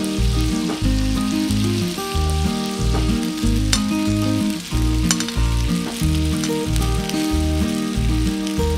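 Background music with a steady beat over food frying in oil in a pan: a continuous sizzle with a few sharp crackles.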